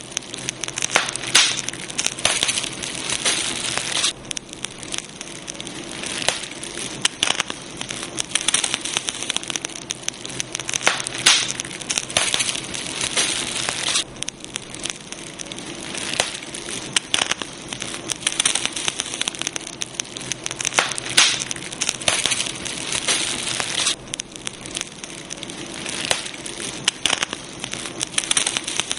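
Wood campfire crackling, with a dense run of sharp pops and snaps over a steady hiss of burning. The popping comes and goes in busier and calmer stretches of a few seconds each.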